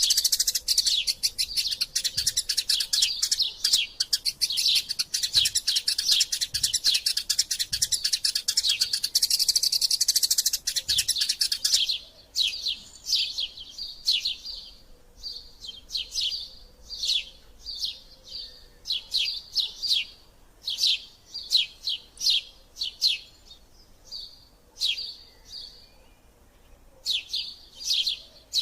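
Eurasian tree sparrows calling in agitated fighting chatter: a dense, rapid run of high chirps for about the first twelve seconds that stops abruptly, then separate chirps, a few each second, with short pauses between.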